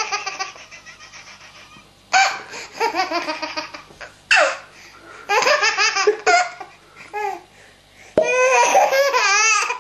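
A baby laughing hard in repeated bouts of belly laughter, with short pauses between them. The longest bout comes near the end.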